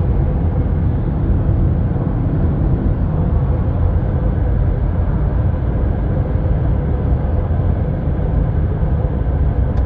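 Steady low rumble of a vehicle, with a faint steady hum over it.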